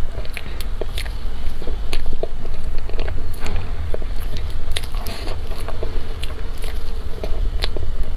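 Close-miked eating of soft cream cake: wet chewing, mouth and lip smacks, with many scattered short clicks, over a steady low rumble.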